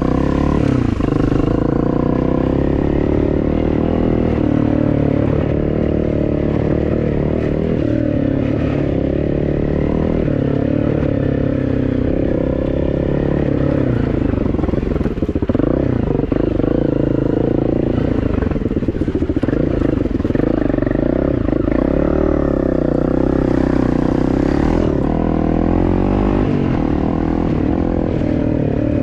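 A vehicle engine running continuously, its revs rising and falling.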